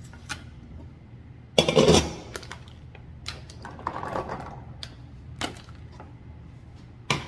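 Handling noise of kitchen items: scattered clicks and knocks, with one loud clatter about one and a half seconds in and a sharp knock near the end, over a steady low hum.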